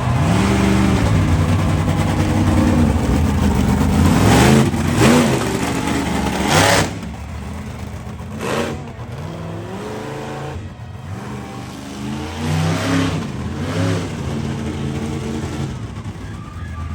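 Monster truck engine revving hard, its pitch climbing and falling, with sharp loud bursts about four and a half, five and six and a half seconds in. After about seven seconds it drops back and revs in shorter blips.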